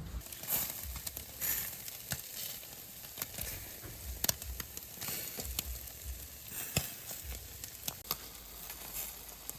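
Food sizzling on a charcoal mangal grill: a steady hiss with scattered sharp pops and crackles.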